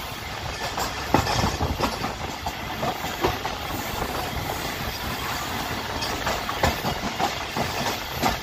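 Tez Gam Express passenger train running along the track, heard from on board: a steady rumble with irregular knocks and clatter from the wheels and carriage.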